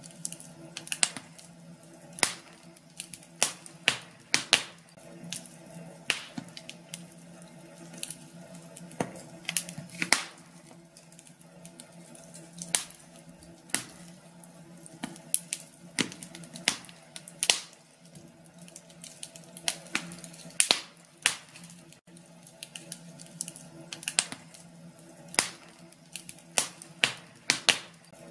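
Wood fire crackling in a fireplace: irregular sharp pops and snaps, a few much louder than the rest.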